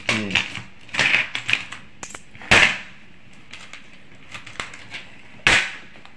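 Metal coins clinking and sliding on a wooden tabletop as they are counted out by hand, with a handful of sharp clacks at uneven intervals.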